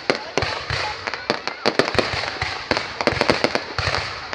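Fireworks going off: a rapid, irregular run of sharp bangs, several a second, over continuous crackling.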